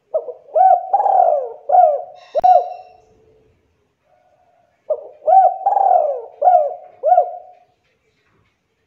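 Spotted dove (tekukur) singing: two cooing song phrases, each a run of four or five short rising-and-falling coo notes over about three seconds, with a pause of about two seconds between them.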